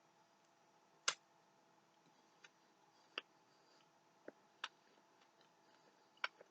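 Near silence broken by about six faint, irregularly spaced clicks: soft mouth noises while chewing a bite of cake donut.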